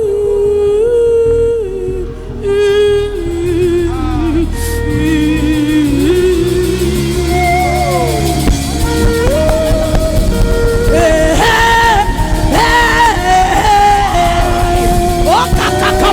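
Live worship music: a woman sings long, held wordless notes with vibrato and slides between pitches over a keyboard-led band. The accompaniment grows fuller about six seconds in.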